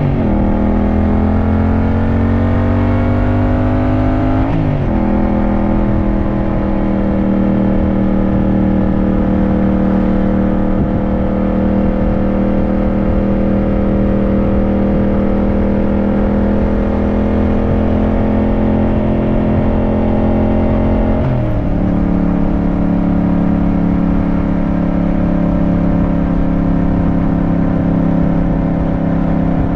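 Yamaha motorcycle engine under way: it revs up steadily, drops in pitch at an upshift about four seconds in, then runs at a steady cruising pitch, with another brief dip in pitch like a gear change about 21 seconds in.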